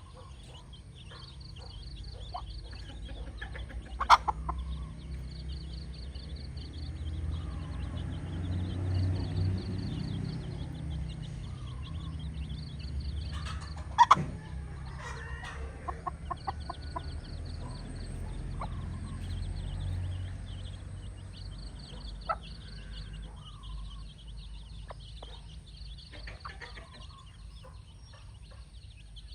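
Mother hen clucking to her chicks. Two sharp knocks stand out, one a few seconds in and one about halfway through.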